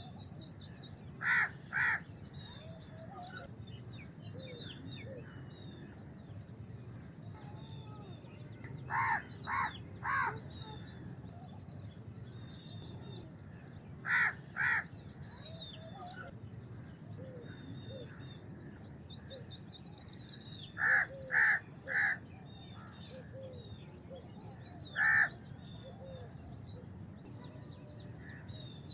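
House crows cawing in short clusters of two or three calls, with a single caw later on. Smaller birds chirp rapidly and continuously in the background.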